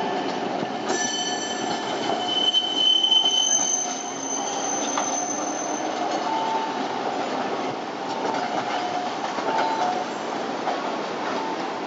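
Streetcar passing, its steel wheels squealing on the rails in high, steady tones that start about a second in and die away after a few seconds, over the running noise of the tram.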